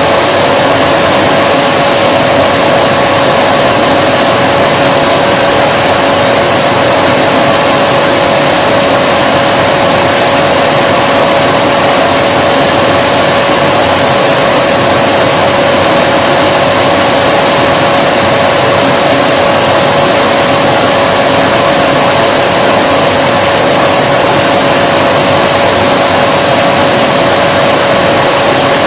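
Vacuum cleaner running steadily: an unchanging motor whine with a strong hum over a dense rushing of air.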